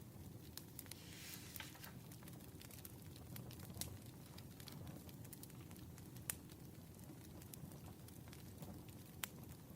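Wood fire crackling: burning logs give scattered sharp pops, a few standing out, over a low steady rumble, with a brief hiss about a second in.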